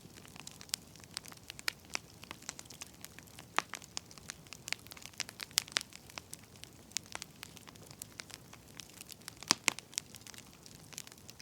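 Firewood burning, crackling with irregular sharp pops and snaps over a faint hiss, a couple of louder pops about nine and a half seconds in.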